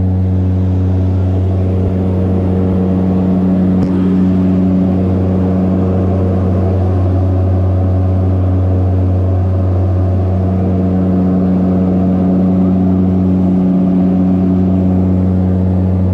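Steady low drone of engines heard inside an airliner cabin, even and unbroken, with a deep hum and a few fainter higher tones over it.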